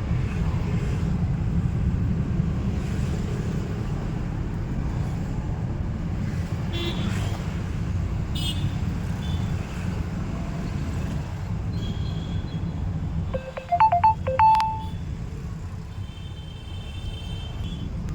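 Steady road and traffic rumble while driving through city traffic. A few short vehicle horn honks in quick succession about 14 seconds in are the loudest sounds.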